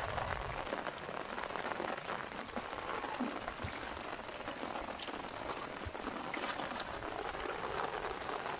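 Steady rain pattering on a black umbrella overhead and on shallow floodwater, a dense even hiss with scattered drop ticks.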